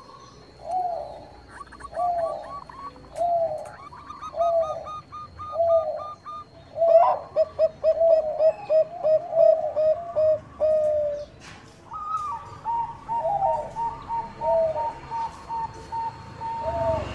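Zebra dove (Thai 'bangkok' perkutut) cooing. Short coos come about once a second at first, then a quick run of rapid coos around the middle, then a steadier series of higher notes near the end. Lighter chirping notes sound above it.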